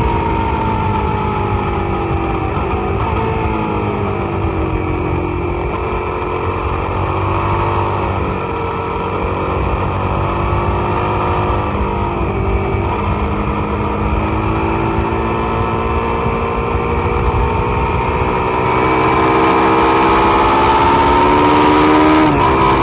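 Suzuki SV650's V-twin engine at track pace, revs falling and climbing again several times as the bike brakes and accelerates through corners, then climbing steadily and growing louder near the end. Wind rushes over the microphone underneath.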